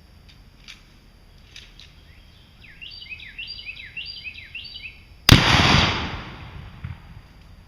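A bird sings a quick repeated phrase, then a single gunshot cracks about five seconds in, its report dying away over about a second: a test round fired into a ballistic barrier.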